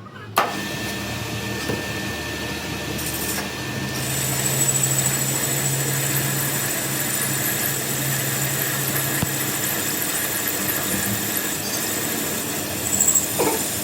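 A power tool starts about half a second in and runs steadily, with a level hum and a thin high whine.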